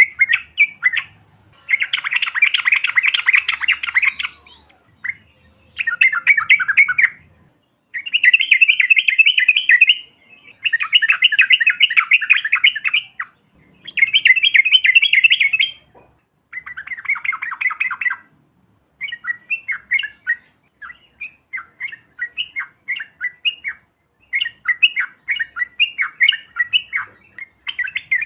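Yellow-vented bulbul (trucukan) song: loud, rapid bubbling chatter in bouts of one to two seconds with short pauses between them, breaking into shorter, quicker phrases in the last third.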